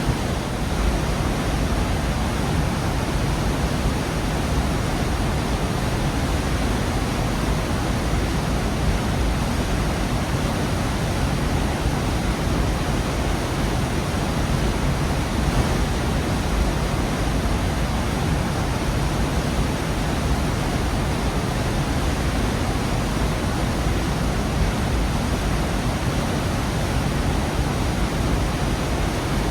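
Waterfall in a rocky gorge: a steady, unbroken rush of falling water.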